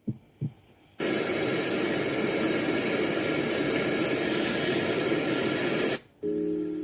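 Baby white noise machine switching between its soothing sounds. Two soft heartbeat thumps, then about five seconds of steady rushing white noise that cuts off suddenly. A simple keyboard lullaby melody begins near the end.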